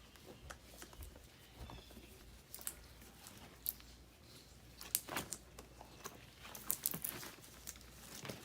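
Scattered light clicks, taps and scrapes of metal parts being handled as a furnace blower motor is fitted into its mounting bands and bracket, with a few sharper knocks a little past the middle.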